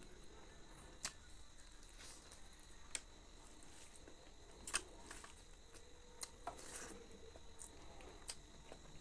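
Faint eating sounds: a handful of sharp wet clicks and smacks from someone eating, spread a second or two apart, over a faint steady hiss.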